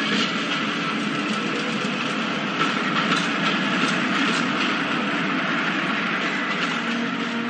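Radio-drama sound effect of a train running along the track: a steady running noise with irregular clacks of the wheels over the rail joints.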